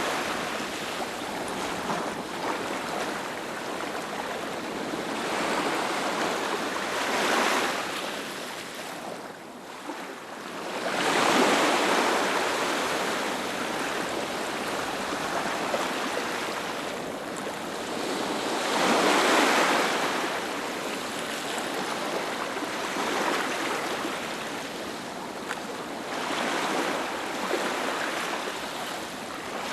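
Sea waves breaking and washing up a beach, a continuous surf that swells and ebbs, with the strongest surges about 7, 11 and 19 seconds in.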